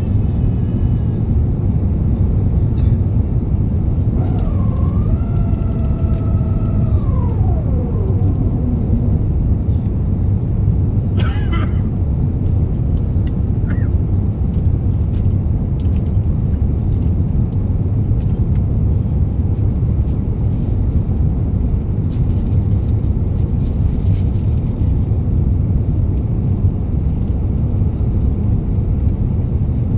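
Steady low roar inside the cabin of an Airbus A350 in flight, from its Rolls-Royce Trent XWB engines and the airflow. About four seconds in, a whine rises, holds, then slides down and fades by about nine seconds. A brief higher chirp follows a couple of seconds later.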